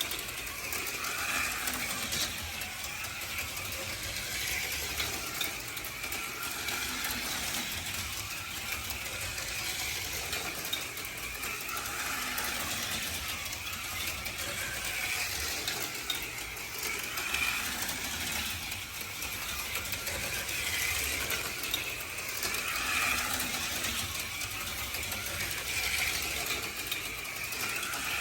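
HO-scale slot cars running laps on a plastic track: a steady whirring buzz of small electric motors and gears, with pickups and tyres rattling on the rails, swelling now and then.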